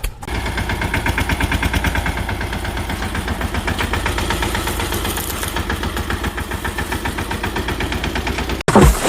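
Diesel engine running with a rapid, even knock. It cuts off abruptly near the end, and a brief, louder, different sound follows.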